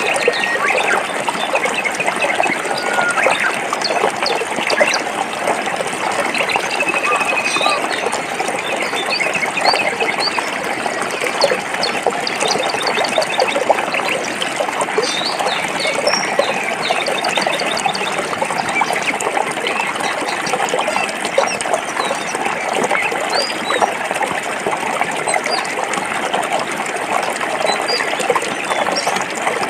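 Stream water running steadily over rocks, with birds chirping and trilling throughout.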